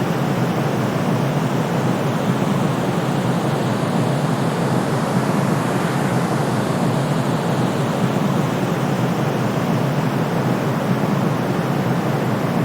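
Steady white noise for sleep: an even, unchanging rushing hiss, weighted toward the low and middle range so it sounds deeper than a bright hiss, with no deep rumble underneath.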